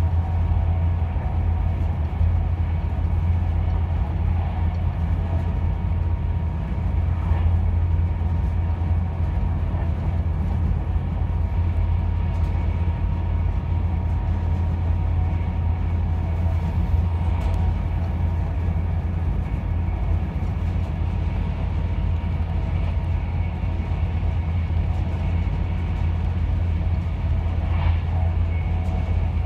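Passenger train running at speed, heard from inside the carriage: a steady low rumble with a faint steady whine above it.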